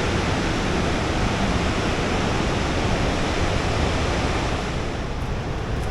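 Steady, loud rush of water from Unchalli (Lushington) Falls, a large monsoon-fed waterfall in full flow.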